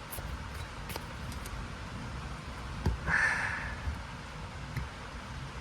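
Pokémon trading cards and a foil booster pack being handled, with soft rustling, light clicks and a brief louder rustle about three seconds in.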